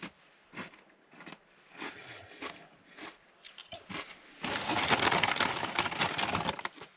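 Tortilla chips being bitten and chewed close to the microphone: scattered small crunches, then a loud spell of crunching about four and a half seconds in that lasts about two seconds.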